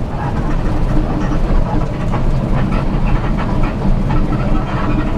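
Steady low vehicle rumble with faint voices mixed in.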